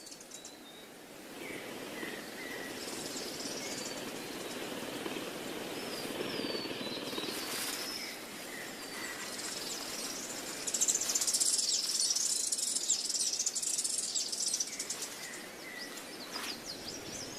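Natural outdoor ambience: short, high bird chirps scattered over a steady background hiss, with a denser high hiss or buzz, like insects, from about ten seconds in to about fourteen.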